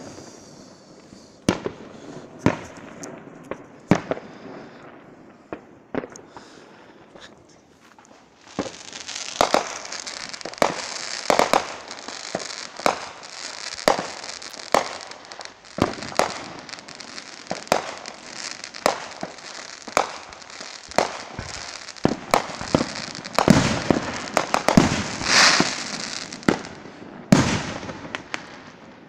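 Fireworks going off: a string of sharp bangs about once a second. From about eight seconds in, a dense crackling hiss runs under the bangs, loudest near the end, and it dies away shortly before the end.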